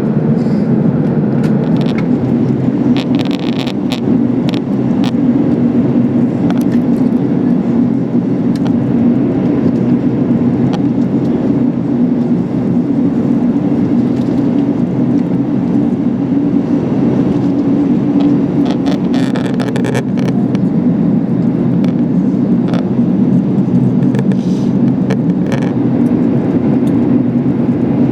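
Steady cabin rumble inside an Airbus A380's lower deck, with scattered light clicks and rattles from the cabin fittings.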